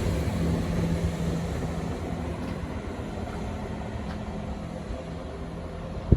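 Class 165 diesel multiple unit running with a steady low drone that slowly fades as the train pulls away. A single sharp click near the end.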